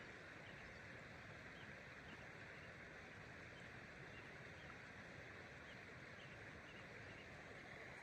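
Near silence: faint, steady outdoor ambience, an even hiss with a few faint ticks scattered through it.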